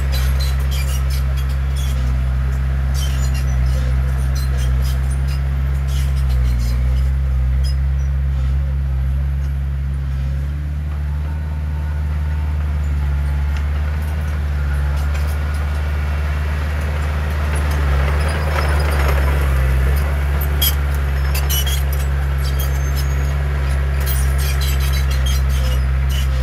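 Heavy diesel earthmoving machinery running at a steady low drone, with scattered metallic clanks and rattles throughout. A short rush of noise rises and fades about two-thirds of the way in.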